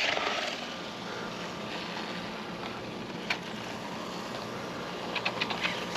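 X-Rider Mars RC motorcycle being driven, a steady whirr of its electric motor, belt drive and tyres, with a few light clicks near the end.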